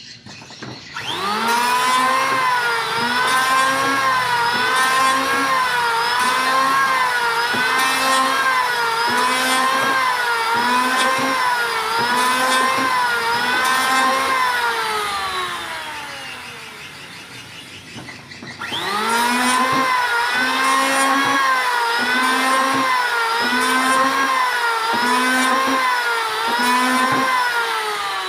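Handheld electric power tool working wood. The motor whines up to speed, its pitch dips and recovers about once a second as it bites into the wood, then winds down with a falling whine about halfway through. It starts again a couple of seconds later and winds down once more near the end.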